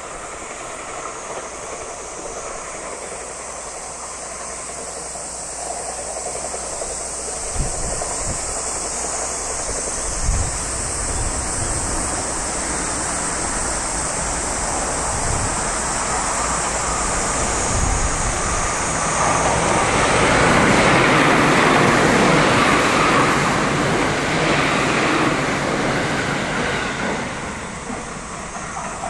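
A JR West 681/683-series limited express electric train passing at speed: wheel and rail noise builds slowly, is loudest about two-thirds of the way in, and fades near the end.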